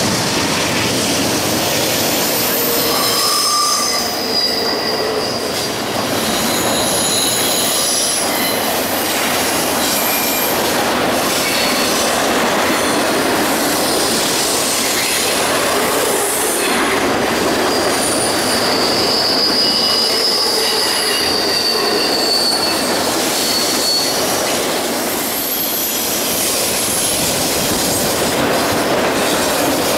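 Double-stack container train cars rolling past: a steady rumble of steel wheels on the rails, with high-pitched wheel squeal coming and going as the cars take a curve, the longest squeal about two-thirds of the way through.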